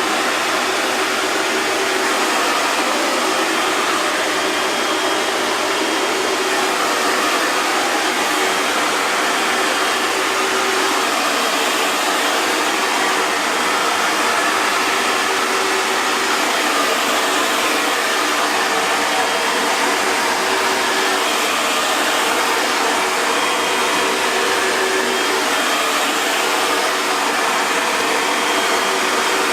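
Hair dryer blowing steadily: an even rush of air with a faint motor hum underneath and no change in speed.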